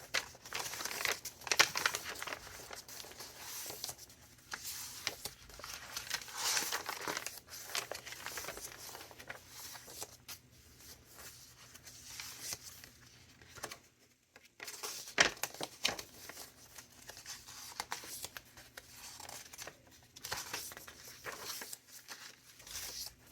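Pages of a chunky handmade paper junk journal being turned and handled: irregular paper rustling and crinkling, with a few sharper flicks.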